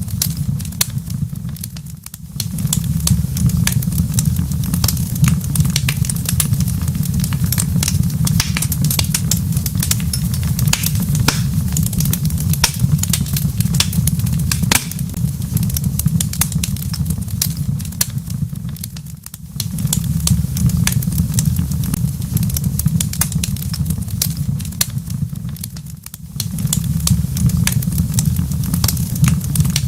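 Wood fire in a fireplace crackling, with many sharp pops and snaps over a steady low rumble. The sound briefly dips three times.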